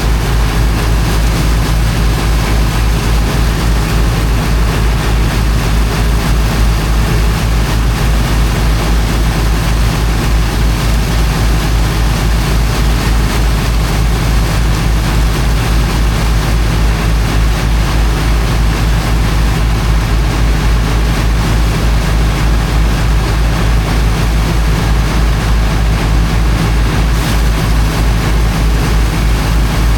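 Diesel engine of a high-pressure water pump running steadily under load, with a fast, even low pulse, over the constant rushing of the pump's water jet.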